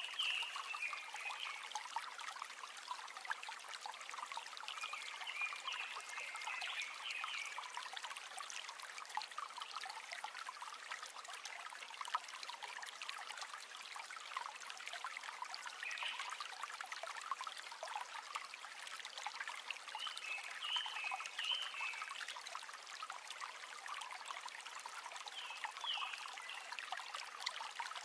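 River water flowing with a steady trickling, babbling rush, and a few short higher chirps coming and going every several seconds.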